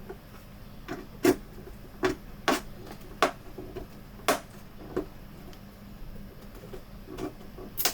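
Sharp, irregular plastic clicks and snaps, about eight of them, as a blade and plastic pry tools work at the clips holding a Samsung U32J590 monitor's plastic bezel and case together.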